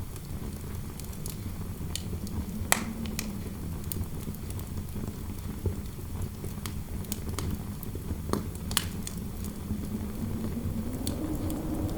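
Fireplace crackling, with scattered sharp pops, the loudest about three and nine seconds in. Under it runs a steady low wind noise with a faint howl that rises in pitch near the end.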